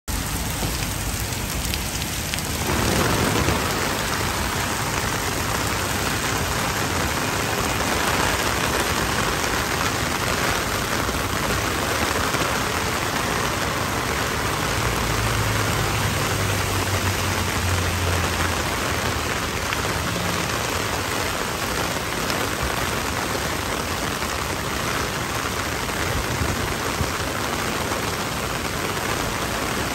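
Heavy downpour pouring steadily onto wet pavement and a street, a dense, even hiss of rain that fills out and grows slightly louder a few seconds in.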